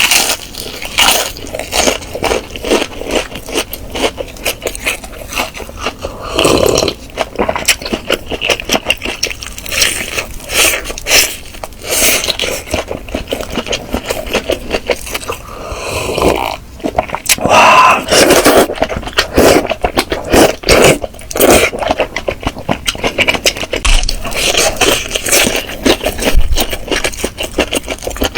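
Close-up eating sounds: a person chewing chicken, with many irregular crunching clicks.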